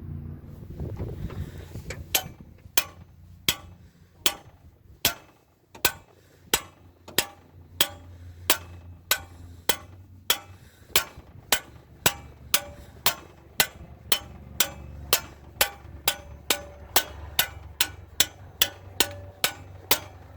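Sharp metallic clicks with a short ring, evenly spaced at about two a second and slowly getting closer together, from a hand tool working on the engine's valvetrain, over a low steady hum.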